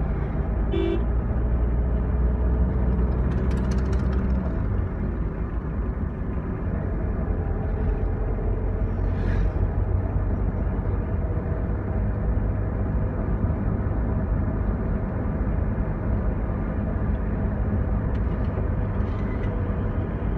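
A vehicle's engine and road noise while driving: a steady hum that drops a little about four and a half seconds in. There is a short beep about a second in.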